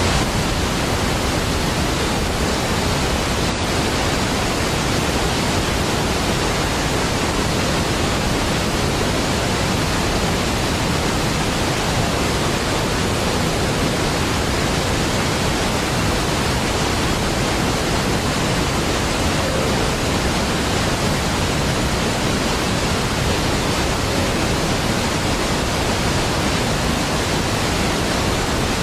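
Steady, unbroken rush of a large waterfall, Niagara Falls, a deep even wash of falling water.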